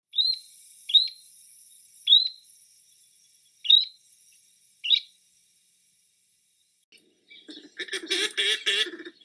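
Bird calls: five short, sharp call notes about a second apart, then near the end a different, lower, rapid chattering call from another bird.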